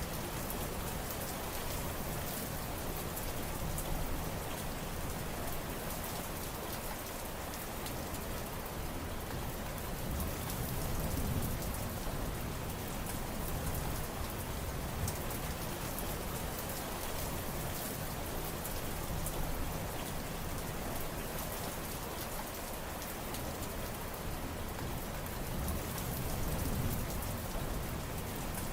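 Steady heavy rain falling, a dense continuous hiss with fine patter of drops on surfaces.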